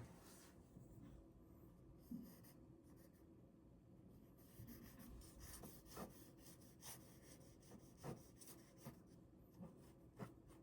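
A ballpoint pen drawing on paper, heard faintly as short scratchy strokes and small ticks that come more often in the second half.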